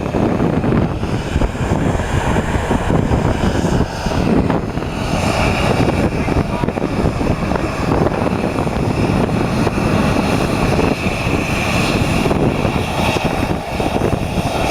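Boeing 737-800's CFM56 jet engines running, heard inside the cabin as a loud, steady rumble; a steady high whine joins in about five seconds in.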